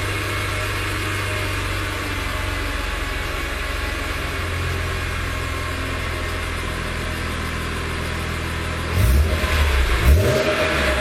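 An engine running steadily, with a low even hum, then growing briefly louder twice near the end.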